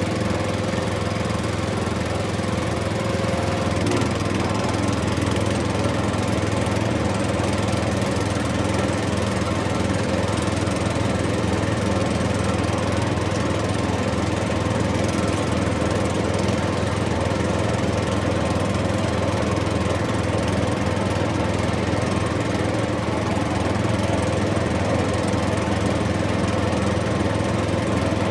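Engine running steadily: an even, unchanging drone with no revving.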